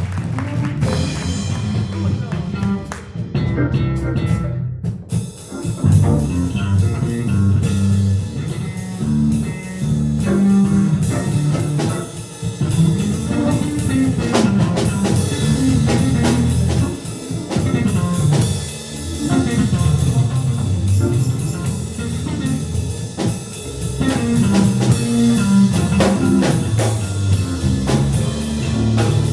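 Live band playing an instrumental blues: electric guitar over a walking bass line and drum kit.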